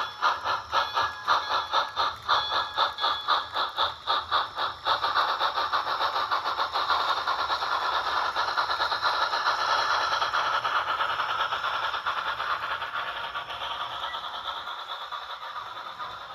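HO-scale Rivarossi 'Casey Jones' steam locomotive running under DCC with a sound decoder. Its small speaker plays steam chuffs, about four a second at first, which blend into a steady rush after about five seconds and fade near the end. Under the chuffs is the mechanical rattle of its old high-torque Rivarossi motor and gearing.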